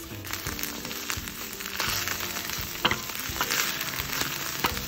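Purslane and garlic sautéing in olive oil in a stainless steel pan, sizzling steadily, while a wooden spatula stirs the greens, with a few brief knocks and scrapes against the pan.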